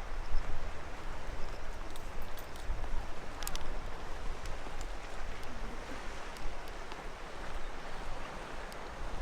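Steady outdoor noise with a low wind rumble on the microphone, and a few faint scattered clicks.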